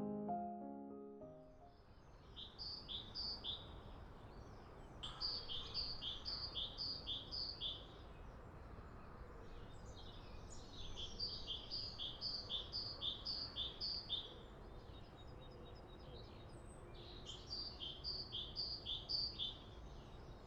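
A songbird singing in four separate phrases, each a rapid run of high repeated two-part notes at about three to four a second, over a steady outdoor background hiss. Soft piano music fades out in the first second or so.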